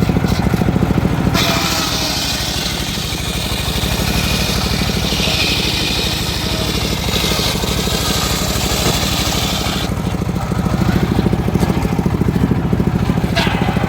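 Engine of a homemade circular sawmill running steadily, with the saw blade cutting through teak wood as a loud hiss over the engine from about a second and a half in until about ten seconds in. The engine then runs on alone.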